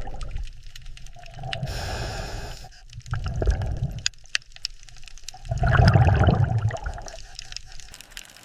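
Underwater water sound: low rumbling surges of water rising and falling in three swells, the loudest a little past the middle, with scattered small clicks throughout.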